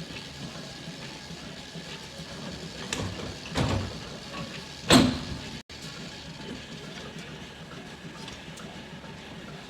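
Steady machinery hum in a milking barn, with a few knocks and clanks; the loudest clank comes about five seconds in.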